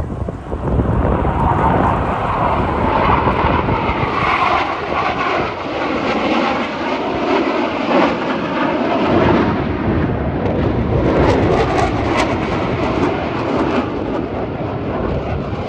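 Engine noise of an airplane flying past, loud and steady with its pitch shifting slightly.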